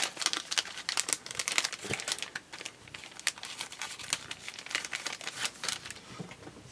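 Irregular crinkling and rustling of plastic packaging, handled in quick bursts and thinning out near the end, as paper flower embellishments are rummaged through.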